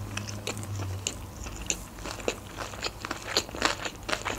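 A mouthful of sushi roll being chewed, with many small wet clicks and crunches at an uneven pace.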